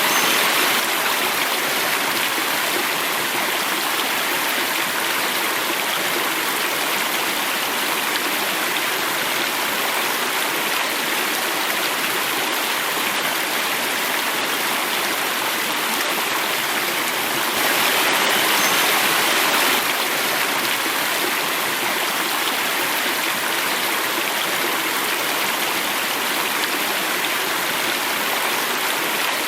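Natural running water, a stream flowing and falling over a cascade, making a steady rushing noise. It swells a little near the start and again for about two seconds around eighteen seconds in.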